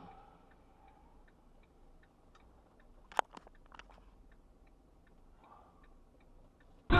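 Faint, regular ticking, about two or three clicks a second, typical of a car's turn-signal relay heard inside the cabin. A sharp click a little after three seconds in, then a few smaller clicks. Loud music cuts in at the very end.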